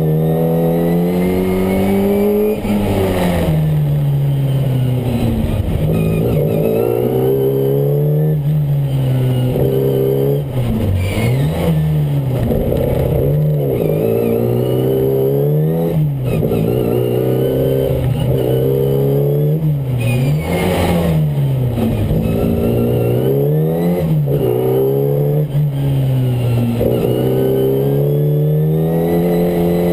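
Car engine being driven hard through a slalom, revving up and dropping back again and again, every second or two, as the driver accelerates between cones and lifts off for the turns. Heard from inside the car.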